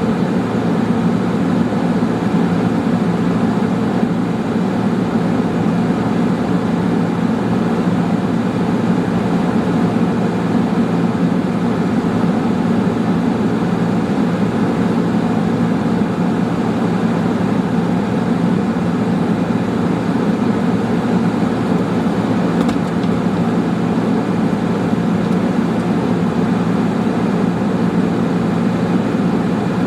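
A steady, unbroken mechanical hum with a low drone, from a running motor or vehicle.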